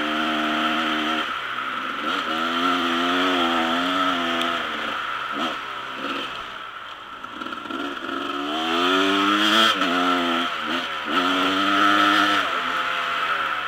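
Dirt bike engine being ridden, revving up and dropping back again and again as the rider works the throttle, over a steady rush of wind and road noise.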